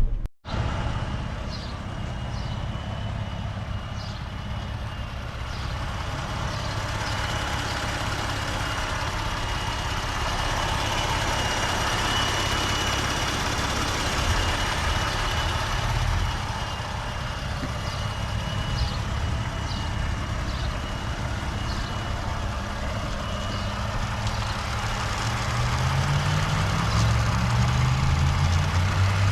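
2021 Ford F-150's 3.5 EcoBoost twin-turbo V6 running after a cold start, idling steadily with a thin steady whine and scattered light ticks over it. Near the end the revs climb.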